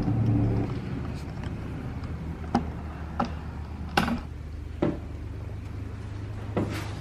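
Decor items being set down and shifted on shelves, giving about seven short, sharp knocks and clinks at irregular intervals, the loudest about four seconds in, over a steady low hum.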